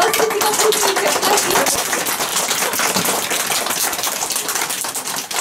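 Audience applauding: a dense, steady patter of many hands clapping at once.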